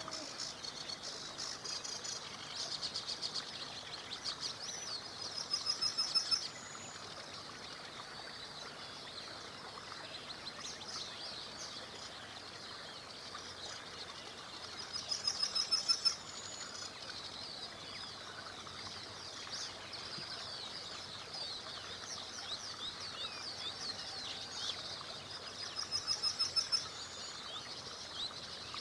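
Several small songbirds chirping and singing over a steady low rush of a river. One bird repeats a loud, rapid trill about every ten seconds, three times.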